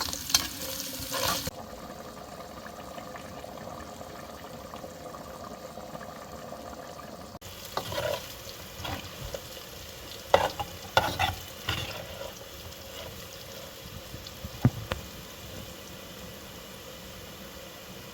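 Food frying and sizzling in a pot while it is stirred, with scattered knocks and scrapes of the utensil against the pot.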